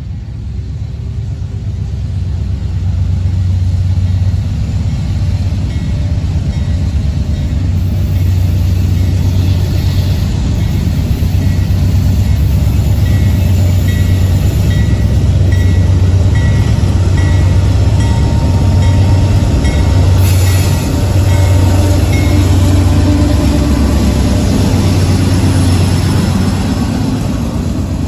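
Norfolk Southern freight train's diesel locomotives approaching and passing close by: a heavy, loud engine rumble that builds over the first few seconds and then holds steady.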